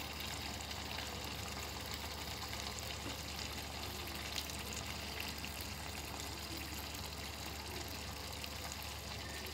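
Chicken karahi gently simmering in oil in a wok, a faint, steady sizzle.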